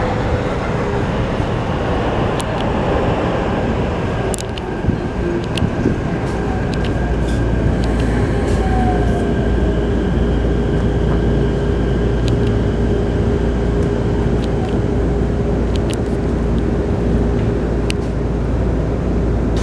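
Keikyu New 1000 series electric train heard from inside the car as it slows for a station: the whine of its Mitsubishi full-SiC VVVF inverter runs steadily over wheel and track rumble, dipping slightly in pitch near the start. Sharp clicks from the running gear and rail joints come every few seconds.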